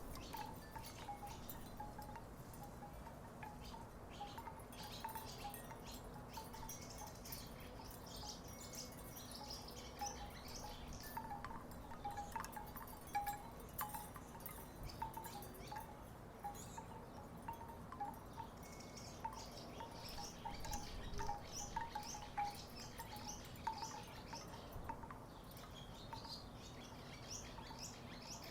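Wooden tiki wind chimes knocking together at an uneven pace, with soft hollow tones coming in scattered clusters.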